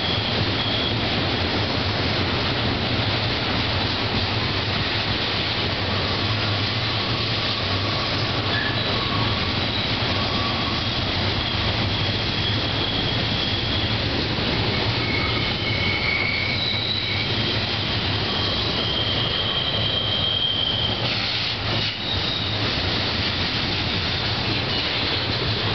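Union Pacific double-stack container train's well cars rolling past in a steady rumble of wheels on rail. Thin, high wheel squeals come and go as the cars take the curve.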